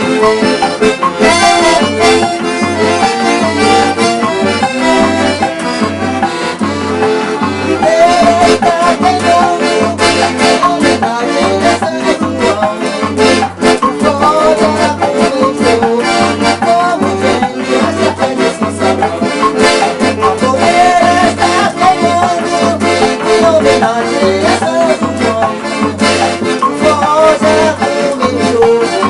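Sanfona (piano accordion) playing a lively instrumental tune over a steady, pulsing bass beat with light percussion.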